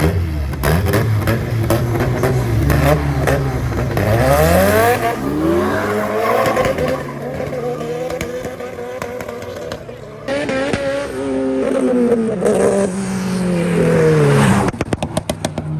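Two drag-race cars, a BMW and a Honda, launching and accelerating hard down the strip. The engines climb in pitch through the gears, with a sudden drop about ten seconds in, then climb again and fall away near the end, followed by a run of sharp cracks.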